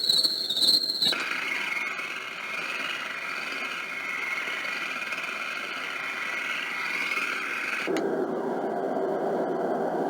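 Recorded nature sounds played back through a white noise machine's speaker. First a steady cricket chirring, then about a second in it switches abruptly to a steady whining hiss. About eight seconds in it switches again to a low, steady car-interior road noise.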